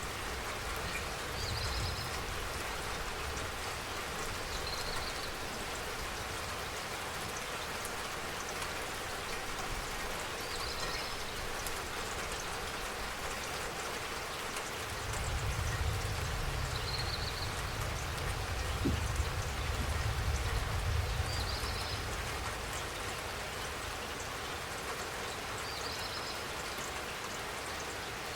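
Steady spring rain falling, an even hiss of drops. A short, high chirp recurs every few seconds, and a low rumble swells for several seconds around the middle.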